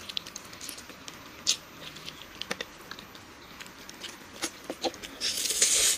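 Close-miked eating sounds from chewing a chocolate-coated dessert: scattered small mouth clicks and smacks, with a short noisy rush about five seconds in.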